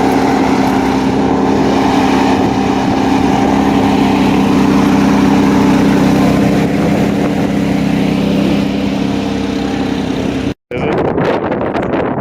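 Car engine idling steadily, a constant hum with no revving. It cuts off abruptly near the end, giving way to rougher outdoor noise.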